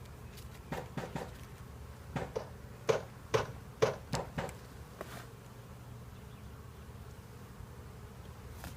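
Honeybees buzzing around an open hive, a steady low hum, with a quick series of about ten sharp clicks and knocks in the first five seconds.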